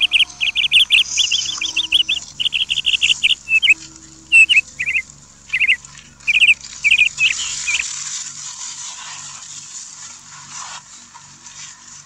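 Bird chirping: rapid runs of short, high chirps that stop about eight seconds in, leaving a steady high hiss.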